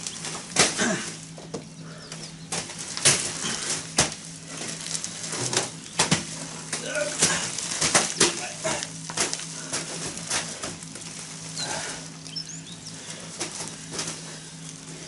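Concrete mixer running with a steady low hum, overlaid by irregular sharp knocks and scrapes of work around it; faint bird chirps in the background.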